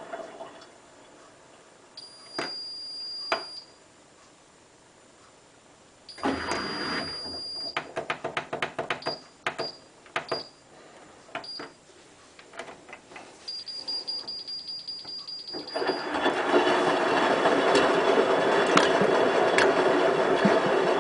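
Hotpoint WT960 washing machine between wash stages: a series of clicks and short high-pitched whines, with a longer whine about two-thirds of the way in. Near the end a steady running noise of the machine starts up and carries on.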